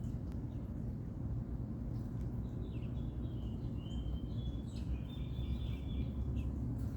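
A small songbird calling a few times, high thin chirps and a couple of longer flat notes near the middle, over a steady low rumble.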